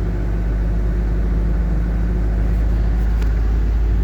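Code 10 truck engine running steadily under power as the truck drives along in third gear, heard from inside the cab as a low, even drone. A faint click about three seconds in.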